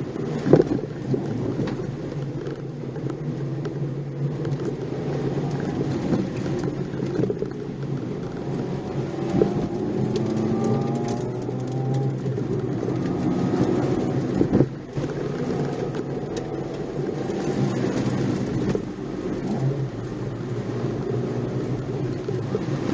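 Nissan March 12SR's 1.2-litre four-cylinder engine pulling hard, its note rising and falling with the revs, over a steady rumble of tyre and road noise. A few sharp knocks cut through, the loudest about half a second in and about halfway through.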